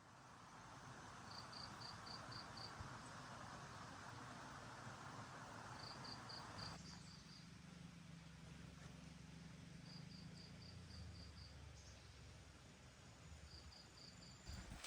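Faint insect chirping: four short trains of five or six quick, high-pitched pulses, repeating about every four seconds.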